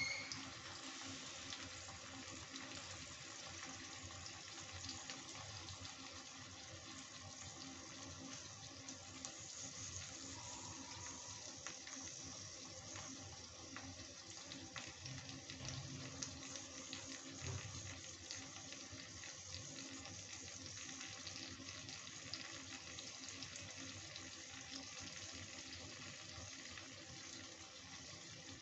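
Paneer cubes frying in mustard oil in a kadai: a steady sizzle with fine scattered crackles.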